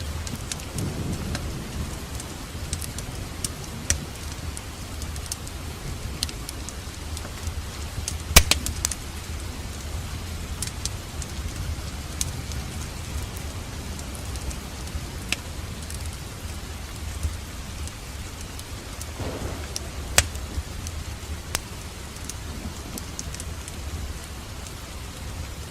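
Wood fire crackling in a fireplace: scattered sharp pops and snaps over a steady low rumble, with the loudest pop about a third of the way in and another past the middle.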